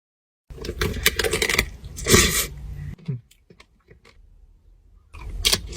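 Biting into and chewing a crunchy fruit-shaped pastry with a white chocolate shell, eaten by hand: crackling crunches start about half a second in and last about two and a half seconds, then soft chewing, and more crunching near the end.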